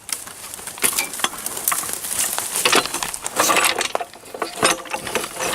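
Irregular clattering knocks and scraping as something is wedged in as support under the jacked-up truck.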